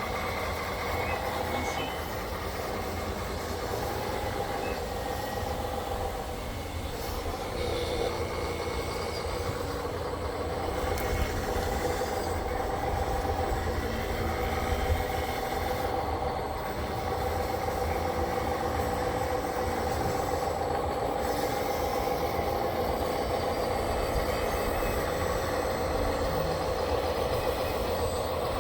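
RC construction machine running, a steady mechanical whine held on two tones over a low rumble.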